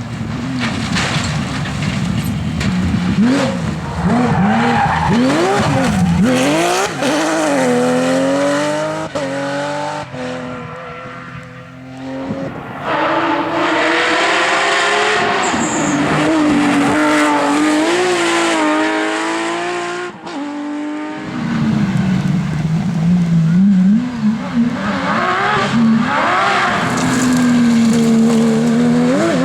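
Porsche 911 GT3 rally car's flat-six engine revving hard, its pitch climbing through the gears and dropping sharply at each shift and lift, over and over.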